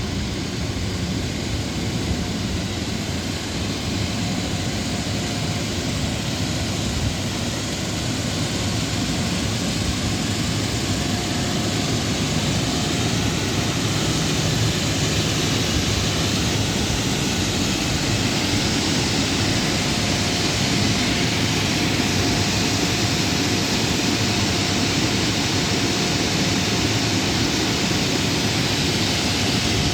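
Steady loud roar of a grain dryer's large fans running, with a faint steady hum that comes and goes, the noise swelling slightly over time.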